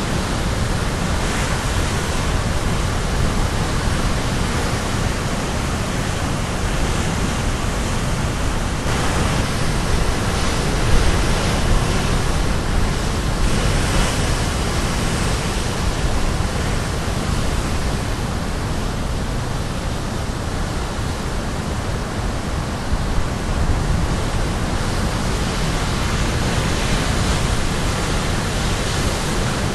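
Caribbean Sea surf breaking and washing on the shore, a continuous dense rush with gentle swells as waves come in. Heavy low rumble in the mix, likely from wind on the microphone.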